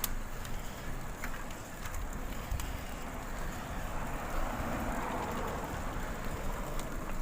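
Wind rumbling on the microphone of a moving bicycle, with a few light clicks and a noisy swell about four to six seconds in.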